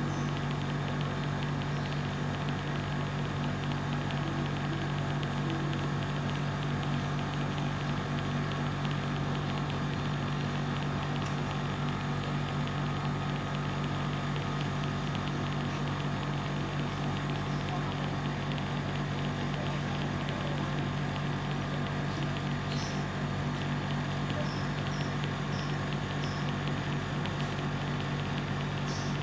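Steady mechanical hum of a running motor or machine, even and unchanging throughout.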